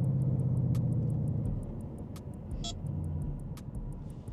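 Car engine and road noise at a steady cruise, with a constant low engine note. After about a second and a half the engine eases off and it all gets quieter, as when the driver lifts off the throttle.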